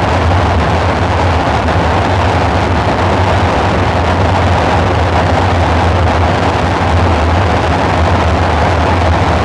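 Dark ambient synthesizer drone: a steady low rumble under a dense hiss, unchanging throughout.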